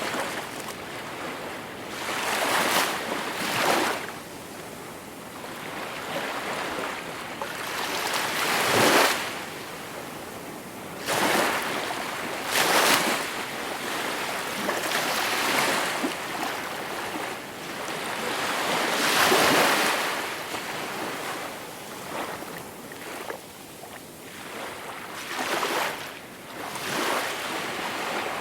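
Gentle sea waves breaking and washing onto the shore, a rising and falling rush of surf with a swell every few seconds.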